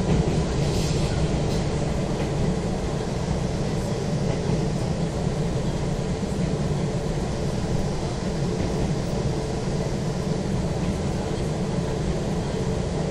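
Izu Kyuko 2100 series electric train running at speed, heard inside the passenger car: a steady low rumble of wheels on rail.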